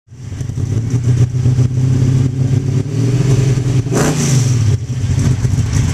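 Car engine running loud and close, with a short rev about four seconds in.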